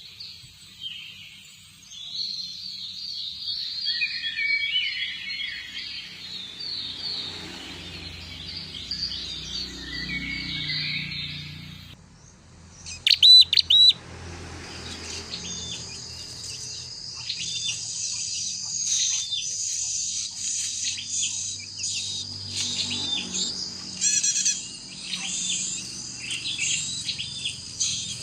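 Small birds chirping rapidly in high, dense calls, with a few louder sharp chirps about halfway through. After that, a steady high-pitched tone runs under the chirping.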